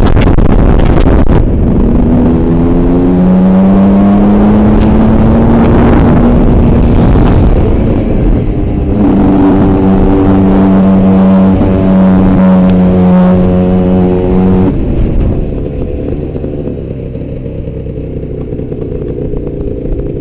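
Aprilia RS 125's single-cylinder two-stroke engine under way, rising in pitch as it revs, holding high revs, then backing off about fifteen seconds in. Heavy wind rush over the helmet-mounted camera runs underneath.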